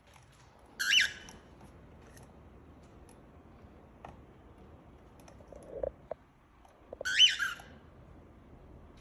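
Cockatiel giving two loud, short squawking calls, one about a second in and one about seven seconds in, with a few soft knocks between them.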